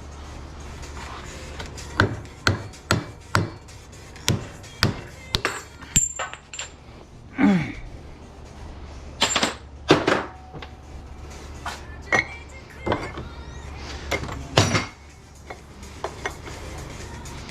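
Hammer blows knocking apart a tight-fitting part of scrap electrical switchgear: a run of sharp strikes about two a second, then scattered knocks and clanks. A steady low hum runs underneath.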